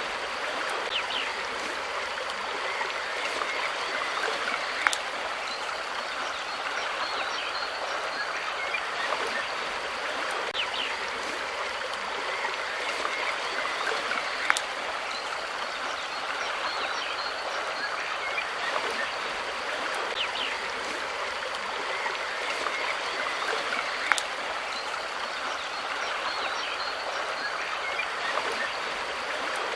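Water of a stream running steadily, with faint short high sounds scattered over it and three sharp clicks about ten seconds apart.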